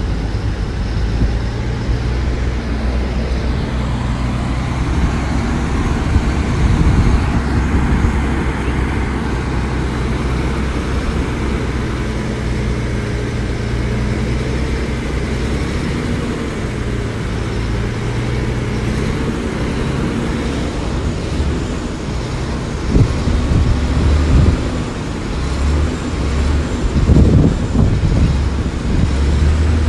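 Diesel engine of heavy earthmoving machinery running steadily at work, with a few heavier knocks and surges in the last few seconds.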